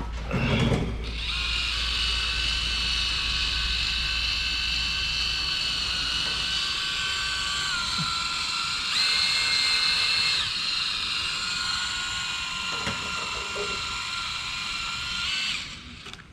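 Electric drill spinning a foam polishing pad loaded with rubbing compound against a plastic headlight lens, a steady whine that speeds up and gets louder for a second or so midway, then winds down and stops near the end.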